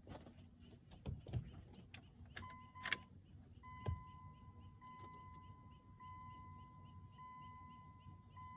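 Keys jangling and a few sharp clicks and a thump, as a key goes into the ignition of a 1998 Dodge Ram with a 12-valve Cummins diesel. From about two and a half seconds in, a steady electronic warning chime sounds in the cab, repeating with short breaks; the engine is not yet running.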